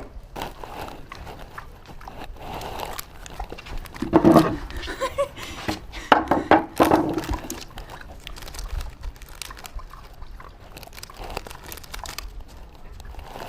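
A pet pig grunting in two bouts, about four and six seconds in, with light crunching and rustling between.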